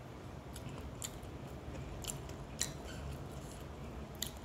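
A person chewing a mouthful of food with the mouth closed, with a few sharp wet clicks of the mouth, over a steady low hum.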